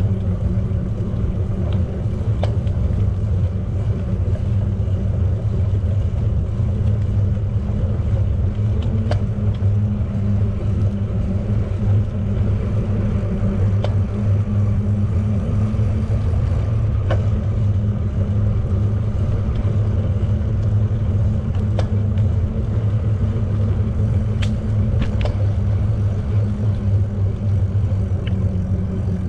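Bicycle riding noise: a steady low rumble from the moving bike, with a few faint sharp clicks scattered through it.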